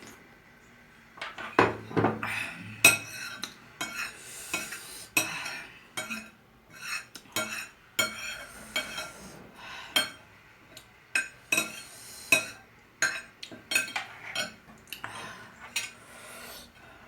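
Cutlery clinking and scraping against a plate in many quick, irregular knocks, starting about a second in, as the last of the noodles are scraped up and eaten.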